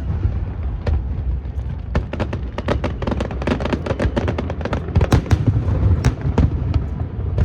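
Fireworks going off: a rapid string of sharp bangs and crackles over a continuous deep rumble, growing denser about two seconds in.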